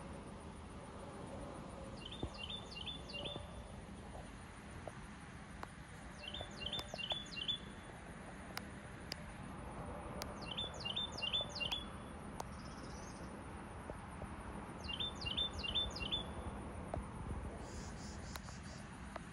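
A songbird singing a short phrase of four quick downslurred notes, repeated four times about every four seconds. Under it runs a steady high insect buzz.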